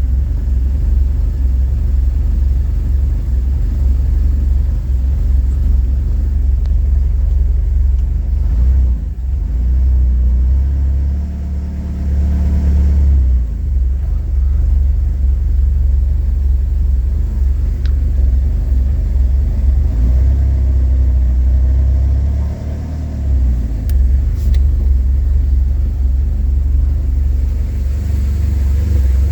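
1988 Porsche 944 Turbo's turbocharged 2.5-litre four-cylinder engine idling after a cold start, a steady low rumble.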